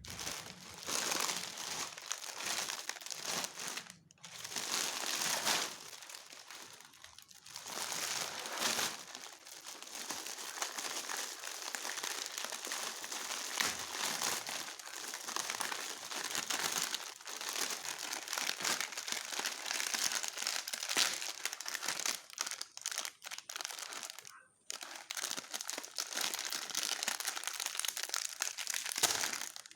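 Crinkly plastic snack packets being handled and crumpled, almost without break, with a few short pauses.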